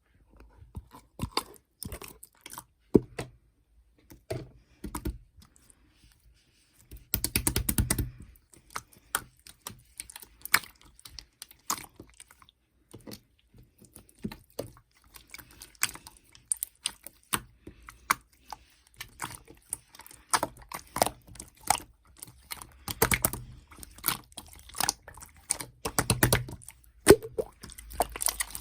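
Mixed slime being squished, poked and folded by hand, giving irregular sticky clicks, crackles and small air-bubble pops, with louder, denser stretches about seven seconds in and twice near the end.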